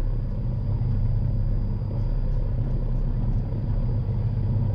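Piper PA-46 Malibu's piston engine and propeller running steadily, heard from inside the cockpit as an even low drone before power is added for takeoff.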